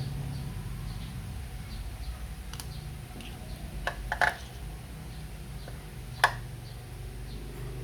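A few sharp clicks and clacks of hard parts or tools being handled, the loudest about four and six seconds in, over a low steady rumble.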